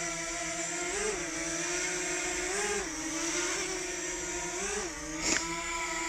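DJI Mavic Mini's propellers whining steadily in flight, the pitch rising briefly and dropping back three times as the motors speed up. A short sharp sound with a quick upward sweep comes just past five seconds.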